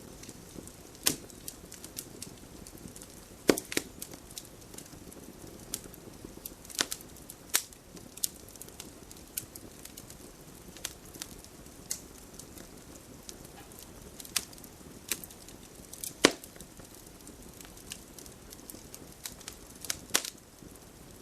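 Wood campfire crackling, with irregular sharp pops and snaps over a steady soft hiss; the loudest pop comes about sixteen seconds in.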